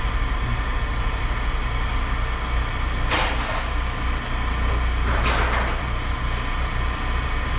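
An engine idling steadily with a low hum, with two short rushing noises about three and five seconds in.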